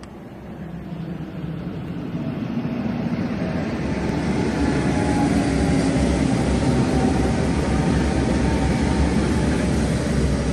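KTX-Sancheon high-speed electric train approaching and running onto a railway bridge: a rushing rumble that swells over the first few seconds, then holds steady and loud.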